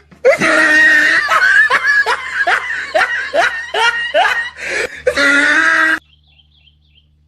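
A person laughing loudly in quick repeated "ha" pulses, about two to three a second, cutting off abruptly about six seconds in.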